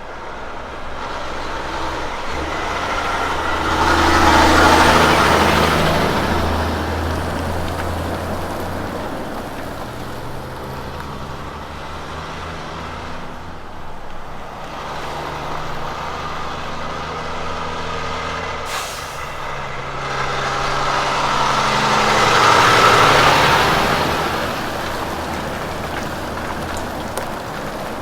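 Heavy diesel road train truck running by, engine note with tyre and road noise that swells to a peak about five seconds in and again at about 23 seconds.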